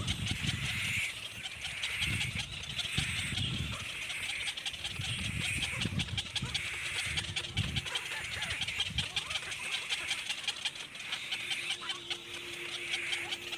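A young bird calling over and over in rapid chirpy bursts, roughly once a second, with low thumps and handling noise underneath.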